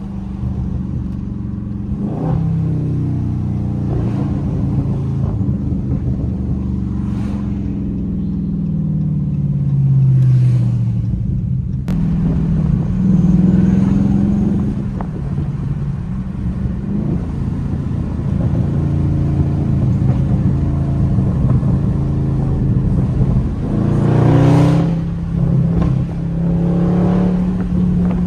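Dodge Scat Pack Widebody's 392 (6.4-litre) HEMI V8 running through a mid-muffler-delete exhaust while driving. The exhaust note falls and rises in pitch with the throttle and gears, with brief surges of acceleration, the loudest near the end.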